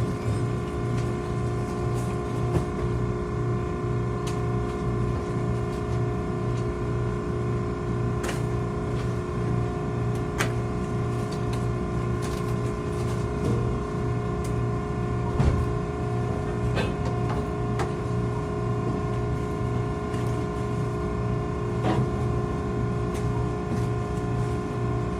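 Maren cardboard baler running steadily: a machine hum with several steady tones and a low, evenly pulsing throb, with occasional short clicks and knocks.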